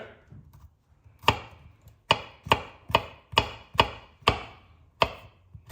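Knife chopping garlic on a cutting board: about nine sharp strikes, roughly two a second, starting about a second in.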